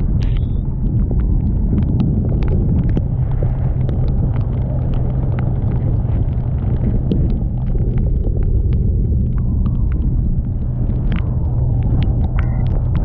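Boat engine running steadily under way with a low drone, under wind rush and heavy rain, with many sharp raindrop ticks throughout.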